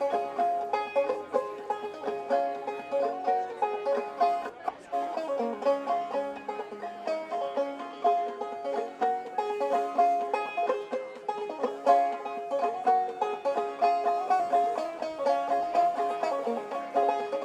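Banjo music in a bluegrass style, a steady stream of quick plucked notes.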